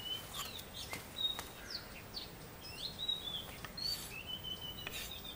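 Faint bird chirps: scattered short, sliding whistled calls over quiet background noise, with a few faint ticks.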